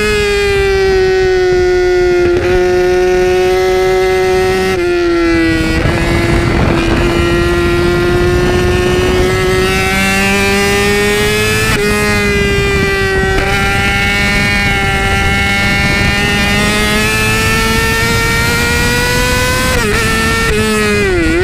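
Yamaha R6 sportbike's inline-four engine running at high revs under hard riding, recorded close to the exhaust. The pitch holds high with small steps and slow rises and falls, and dips briefly and picks up again near the end.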